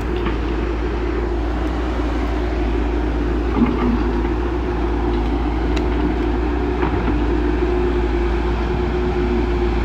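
Heavy diesel construction machinery running steadily, its engine giving a continuous hum, with a few faint knocks.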